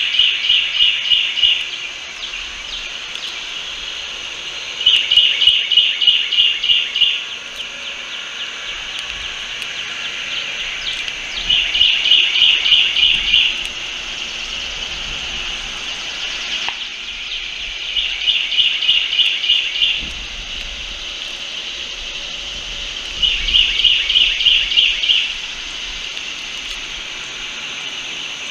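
A bird's rapidly pulsed trill, each about two seconds long, repeated about every six seconds over a steady high background hiss.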